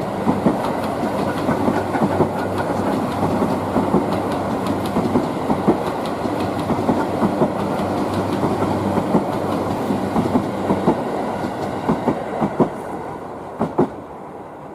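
Tobu 9000-series electric train cars being hauled past by a Chichibu Railway Deki 500 electric locomotive, the wheels clattering steadily over the rail joints. The clatter fades toward the end, with a few last separate clacks.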